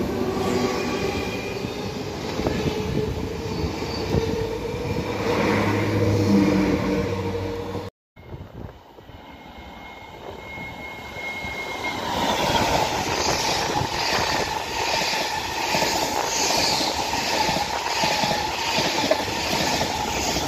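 Two electric double-deck commuter trains in turn. First, a train runs by with its traction motors humming and whining. After a cut about 8 seconds in, a second train approaches with rumbling rail noise that grows louder, a brief high squeal, and then a high wheel squeal that comes and goes as it runs past.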